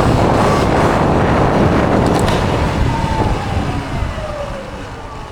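Wind rush on the microphone while riding an electric dirt bike, with a faint motor whine. About three seconds in the whine slides down in pitch and the rush eases off as the bike slows.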